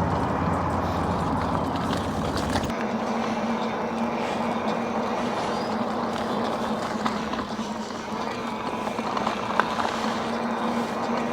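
Steady vehicle travel noise: rushing wind and road noise under a steady hum. A deeper engine drone fades away about three seconds in.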